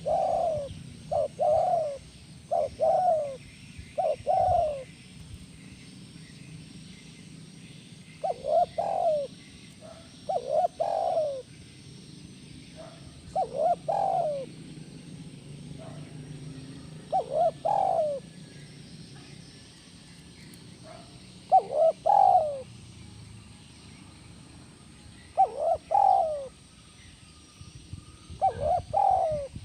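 Spotted dove (tekukur) cooing in the 'kuk 1' call style prized by Indonesian dove keepers. Short phrases of low, falling coos come quickly at first, then one phrase every few seconds.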